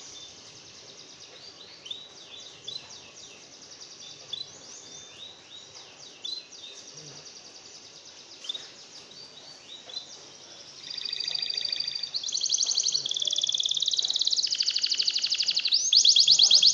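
A small songbird calling: a loose series of short down-slurred chirps, then from about eleven seconds in a louder, rapid buzzy trill given in repeated bouts.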